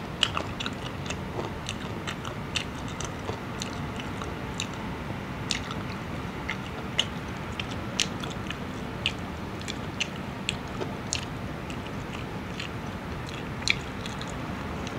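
Close-up chewing of crispy crumb-coated fried fish, with irregular sharp crunches and mouth clicks about once or twice a second over a steady low hiss.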